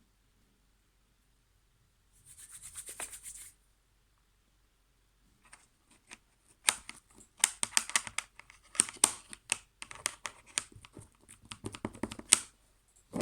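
Slime being stretched and squished by hand, making sharp crackling clicks and pops: one short crackly burst about two seconds in, then a long busy run of clicks from about five seconds in.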